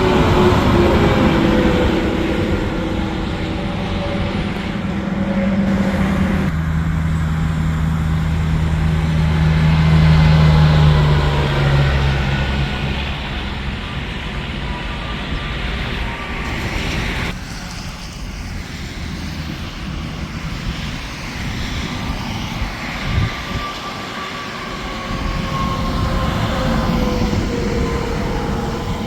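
Interstate traffic: semi trucks passing at highway speed, a steady roar of engines and tyres with the pitch dropping as each one goes by.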